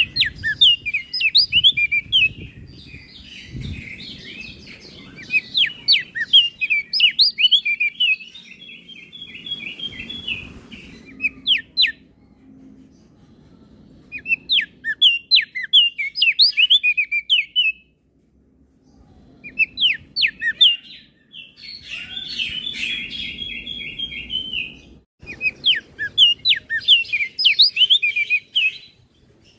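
Crested white-eye (opior jambul) singing a loud, rapid, varied chirping song in several bouts separated by short pauses, with buzzy trills mixed in.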